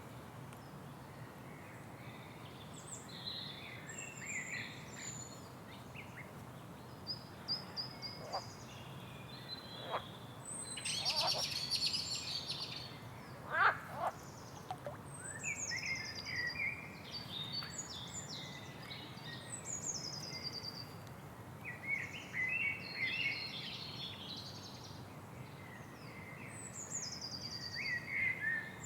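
Several wild birds calling at once: a busy mix of high chirps, trills and short falling whistles, with a louder chattering burst and a few sharp calls in the middle. A steady low hum runs underneath.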